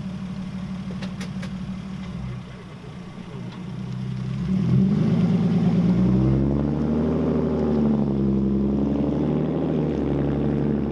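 A car engine running close by, growing louder about four seconds in and then rising and falling in pitch as it is revved.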